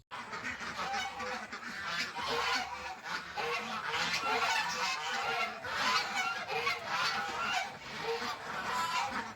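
A flock of domestic geese honking together, many calls overlapping without a break; the honking starts abruptly.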